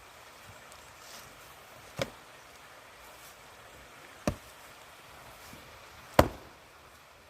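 Axe striking firewood three times, about two seconds apart, each a sharp chop; the third is the loudest.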